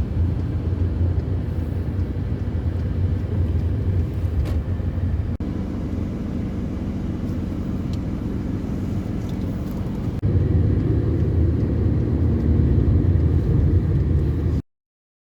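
Steady low rumble of outdoor background noise, broken by two abrupt cuts and stopping suddenly into silence near the end.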